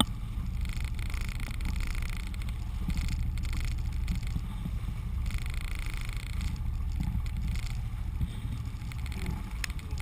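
Water washing and hissing along a sailboat's hull as it moves through the sea, in surges that come and go, over a low steady rumble.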